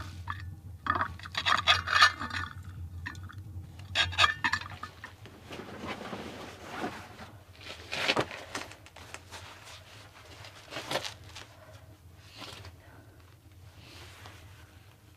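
Cookware and utensils clinking and scraping: short clatters, a cluster in the first few seconds and then single ones spaced further apart, fading toward the end.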